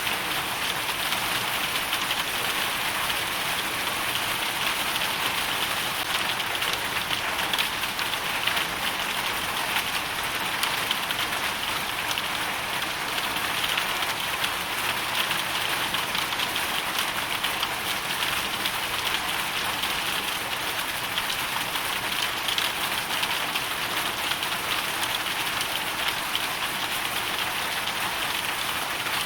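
Hailstorm: hail and rain falling steadily and densely, many small ticks of hailstones over an even hiss, without letup.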